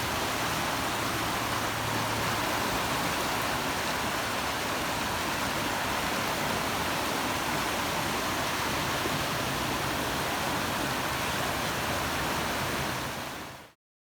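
Steady rush of heavy rain and running floodwater, an even hiss that cuts off near the end.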